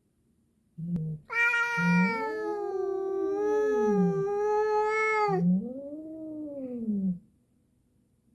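Two cats in a hostile standoff: one gives a long, held yowl while the other makes low, rising-and-falling growling moans, which continue on their own for a couple of seconds after the yowl stops.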